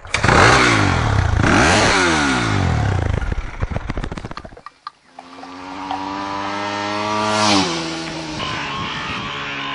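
Dirt bike engines revving as motorcycles ride past, several engine notes sweeping up and down across each other. After a brief drop-out, one bike's engine climbs steadily in pitch for a couple of seconds, then drops sharply.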